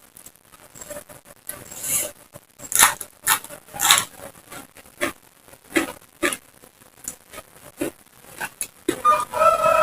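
Close-up crunching and chewing of crisp raw vegetables, in irregular bites with short pauses between them. A rooster starts crowing near the end.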